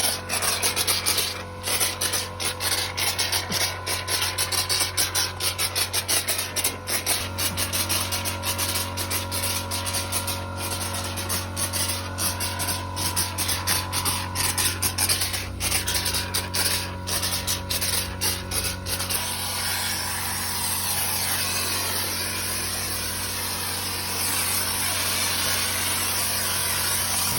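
Repeated rubbing strokes, a few a second, over a steady low hum; the strokes stop about 19 seconds in, leaving an even steady noise.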